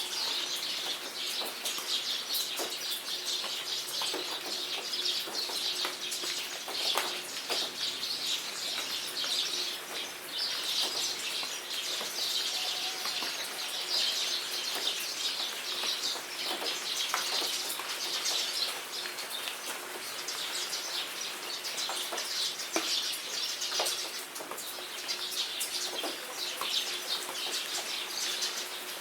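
Steady rainfall with many separate drops ticking, and birds chirping and calling throughout.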